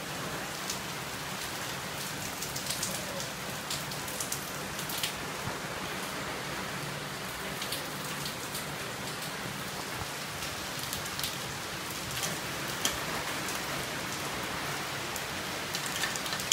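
Heavy rain pouring steadily, with many scattered sharp ticks of impacts that sound like very tiny hail mixed into the rain.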